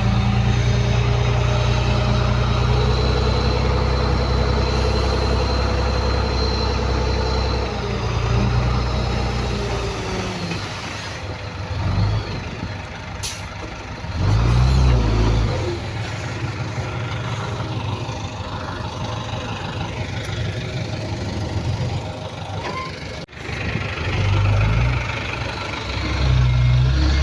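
Heavy diesel earthmoving machinery running: a steady engine drone for about eight seconds, then quieter with repeated surges of engine power. There is a brief hiss about 13 seconds in, and the drone builds again near the end.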